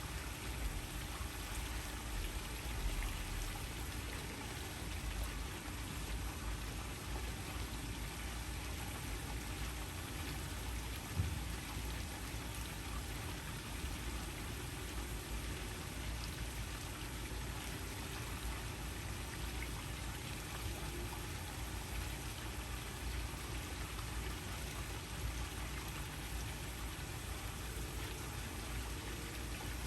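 Waterfall: a steady, even rush of falling water, with one brief knock about eleven seconds in.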